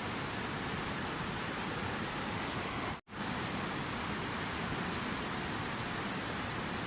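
Steady rushing water noise. The sound cuts out completely for a split second about three seconds in, then resumes unchanged, which suggests a splice or loop point in the track.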